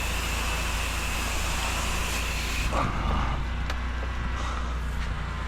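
Pressure washer running: a steady engine hum with the hiss of the rinse spray, which cuts off sharply about halfway through while the engine keeps running.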